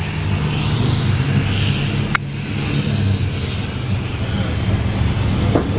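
International Harvester 806 tractor engine running hard under load while pulling the weight sled, a steady low, throbbing note. A sharp click sounds about two seconds in.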